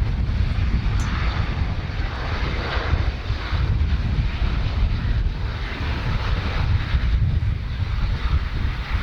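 Aircraft engine noise, a steady rush, over heavy wind buffeting the microphone.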